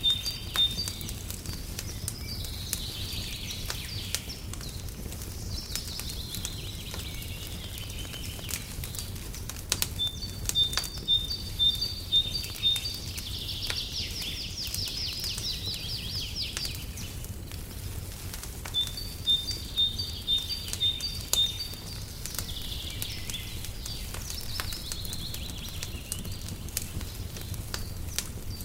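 Birdsong over a crackling fire. A bird repeats one phrase roughly every nine seconds: a run of quick, high two-pitched notes followed by falling warbles. Sharp crackles pop throughout over a steady low rumble.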